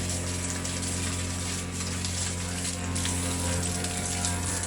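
Water spraying steadily from a hose onto the pigs during washing, over the constant hum of an electric water pump.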